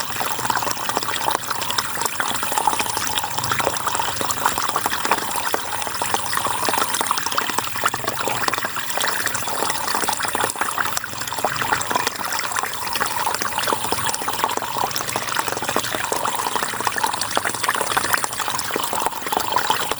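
River water flowing steadily: a dense, even rush with close splashing and gurgling.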